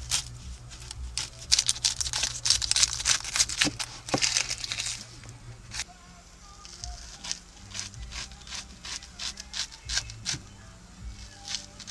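Knife chopping vegetables on a cutting board, a run of quick, irregular chops. They come thick and loud for the first five seconds, then sparser.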